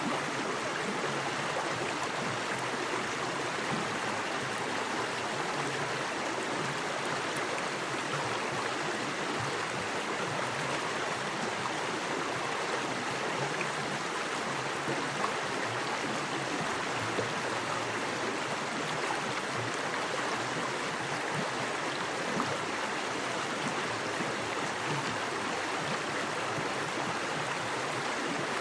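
Small forest creek running fast over rocks: a steady rush of water with small splashes and gurgles throughout.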